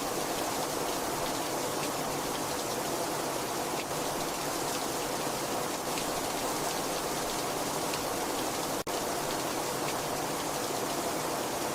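Very heavy rain falling steadily: a dense, even hiss with scattered drop ticks. There is one very brief dip in loudness just under nine seconds in.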